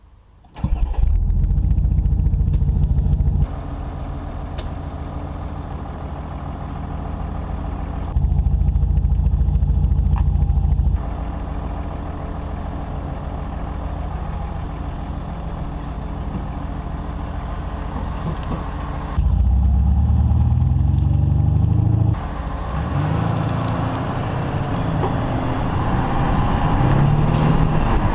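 Audi SQ5's V6 engine and exhaust: it starts about half a second in and runs with louder stretches between quieter idling. In the last third it speeds up several times with the pitch rising as the car pulls away.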